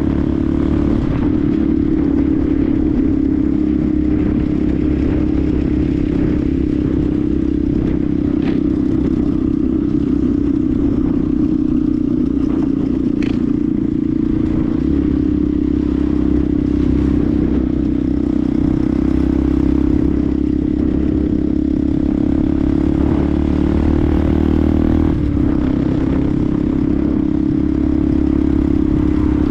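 Benelli TNT 125's single-cylinder 125 cc four-stroke engine running at steady revs on the move, with a brief dip in revs near the end.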